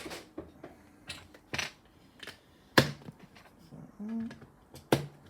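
Loose plastic LEGO pieces clicking and clattering as they are picked through and set down on a table: about five sharp clicks spaced irregularly, the loudest near the middle.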